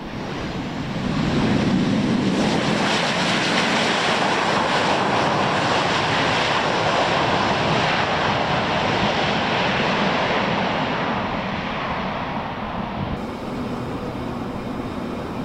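Boeing P-8I Poseidon's twin turbofan jet engines heard as the aircraft passes: the noise swells over the first two seconds, holds loud and steady, then eases down over the last few seconds.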